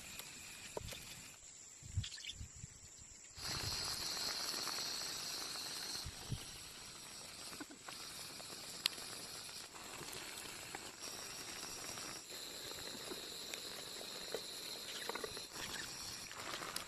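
Food sizzling in hot oil in a pan. The sizzle starts suddenly about three seconds in and then runs steadily, with a few clicks and knocks of a utensil.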